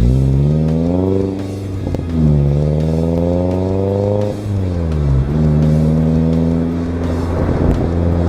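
2013 Toyota Corolla's four-cylinder engine through an aftermarket Borla exhaust, revving up under acceleration: the pitch climbs, drops at a gear change about a second in, and climbs again. A little past halfway it falls and then holds a steady drone.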